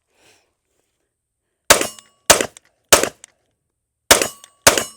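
Canik METE MC9 Prime 9mm pistol firing five shots: three in quick succession about a second in, then a short pause and two more near the end, each a sharp crack with a brief ringing tail.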